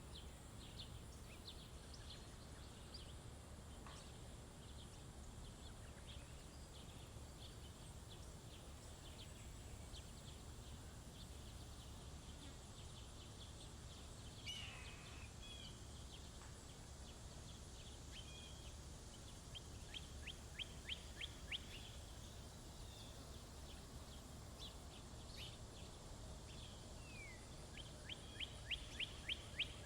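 Faint songbirds chirping at a feeder, with scattered short calls, a louder call about halfway through the first half, and two quick trills of rapidly repeated notes, one past the middle and one near the end. A steady low rumble runs underneath.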